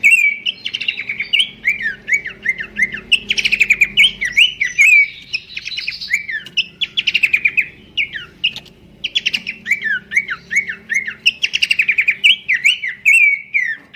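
Horsfield's babbler (pelanduk semak) singing: phrases of a rapid chattering trill followed by a string of quick slurred whistled notes, repeated every few seconds, over a faint low hum.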